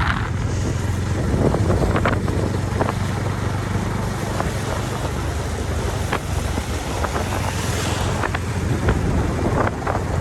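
Motorcycle engine running at a steady riding pace, with wind rushing over the microphone.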